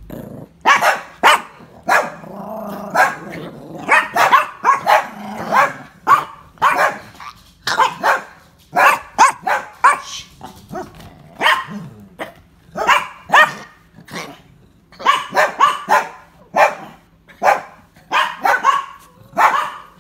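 A dog coughing over and over in short, harsh bursts, often in quick runs of two to four, with a longer rasping sound at about two seconds in.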